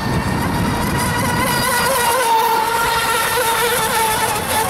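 Fast radio-controlled speedboat motors running on the water: a high, steady whine with a slight waver in pitch.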